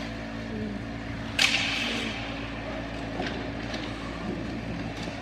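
Ice hockey play in an arena: one sharp crack about a second and a half in, ringing out briefly, with a few lighter clicks after it, over the rink's steady hum.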